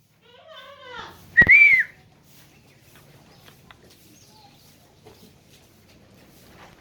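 A Sojat goat kid bleats in a short falling call, then a brief loud high whistle about a second and a half in, followed by quiet farmyard background.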